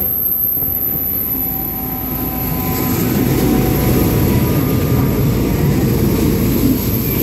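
V/Line passenger carriages rolling past close along the platform as the train pulls in: a loud, steady rumble of wheels on rail.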